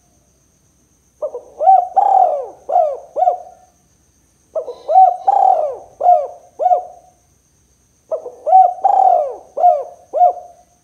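Spotted dove cooing: three phrases of several rounded, arching coos each, a little over a second apart.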